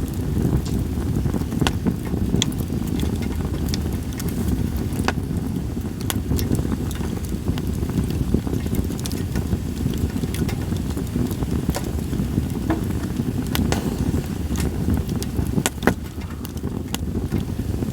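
Campfire of split sawtooth oak (kunugi) logs crackling, with irregular sharp pops scattered through, over a steady low rumble of wind on the microphone.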